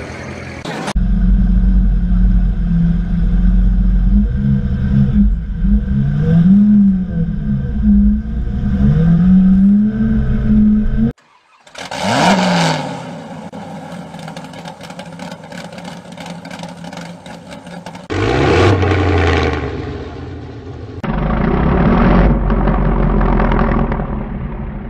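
High-performance car engines revving with loud exhausts. First an engine is revved over and over for about ten seconds, its pitch rising and falling. After a short break, a Ford GT40's V8 is blipped in three sharp revs.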